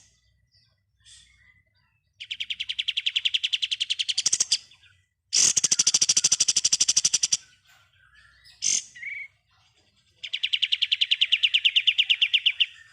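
Kapas tembak songbird singing in rapid machine-gun-like rattling trills ('ngebren'), three bursts of about two seconds each with short calls in between.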